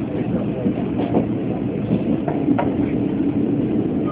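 Steady rumble of a Chu-Kuang Express passenger carriage running on the rails, heard from inside the car, with a few faint sharp clicks.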